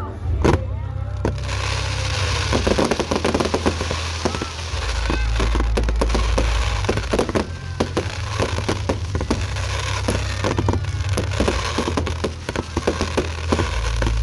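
Aerial fireworks display going off in rapid succession: many sharp bangs over a dense crackle that sets in about a second in, with a heavy low rumble underneath.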